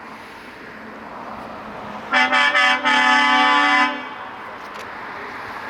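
Truck air horn sounding three quick toots and then one longer blast, over the steady running of truck engines.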